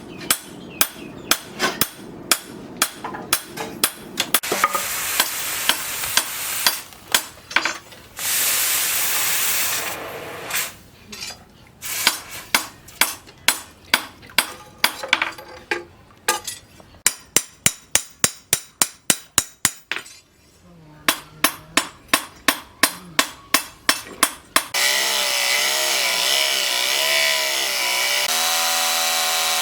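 A hammer striking steel on an anvil in long runs of quick blows, about three to four a second, broken by a few seconds of steady hissing. About three-quarters of the way through, a power tool starts and runs with a steady whine that wavers in pitch.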